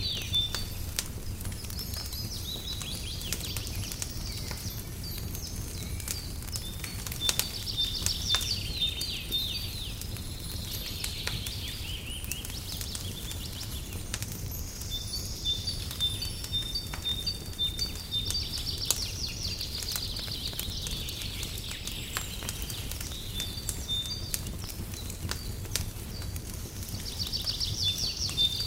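Wood fire crackling in a fireplace with a low steady rumble, while songbirds chirp and trill in short bouts every few seconds.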